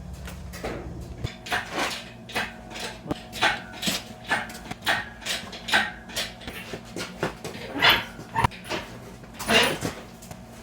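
A dog barking repeatedly, in short irregular barks about twice a second.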